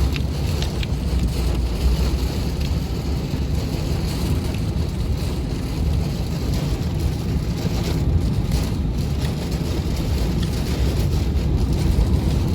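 Very strong thunderstorm wind with rain, a steady loud rush that buffets the microphone with a deep rumble.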